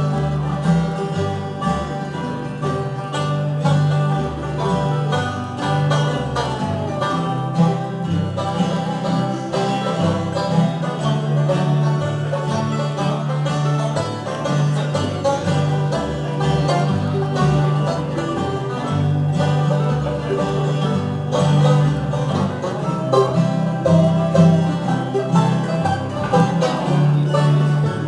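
Acoustic bluegrass band playing an instrumental break between sung verses, banjo picking over strummed guitar and a steady bass line.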